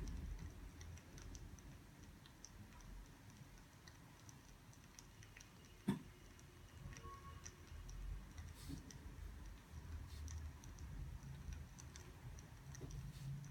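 Faint, irregular crackling and ticking of burning firewood, with one sharper pop about six seconds in.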